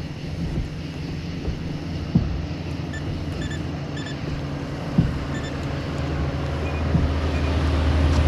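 Low, steady drone of a motorboat engine on the water, growing louder as the boat comes closer. A couple of short knocks, about two and five seconds in, and a few faint short beeps.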